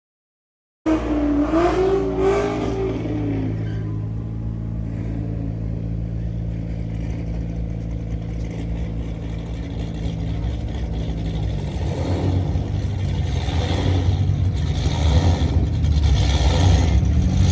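Car engines idling at a drag strip, a steady low hum that turns rougher and louder from about twelve seconds in as revving builds.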